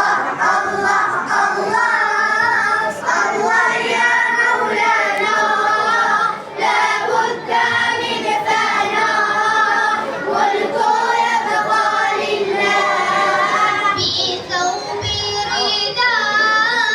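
Children's voices singing together, a wavering, drawn-out melody sung without pause.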